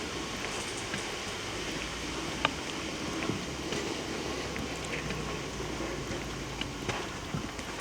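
Handling noise from a handheld camera carried on a walk: a steady rustling hiss with scattered small clicks and ticks, one sharper click about two and a half seconds in.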